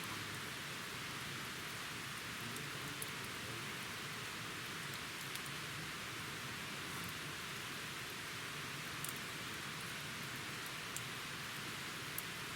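Wood campfire burning in a fire pit: a steady hiss with a few sharp crackling pops spaced several seconds apart.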